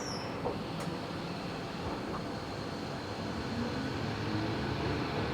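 Tobu 70000 series subway train heard from inside the car, pulling away and gathering speed: running rumble of wheels on track with the traction motor and VVVF inverter sound, slowly getting louder.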